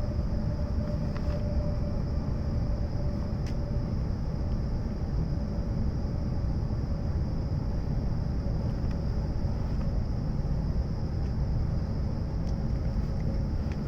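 E7 series shinkansen running at speed, heard inside a passenger car: a steady deep rumble with a faint steady tone and a thin high whine.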